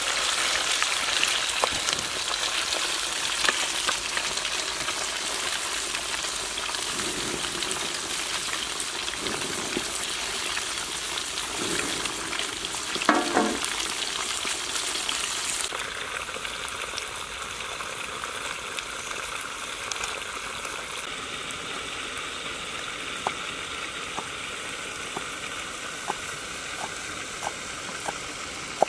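Crocodile meat frying in oil in a pan, with a steady sizzle as a wooden spatula stirs it. About halfway through the sizzle drops off suddenly to a quieter hiss. Near the end come light knocks, about one a second, of a cleaver chopping on a wooden board.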